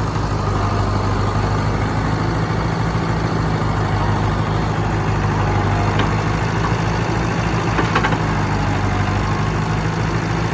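International Harvester 574 tractor engine running steadily at a low, even speed, with a couple of light knocks about six and eight seconds in.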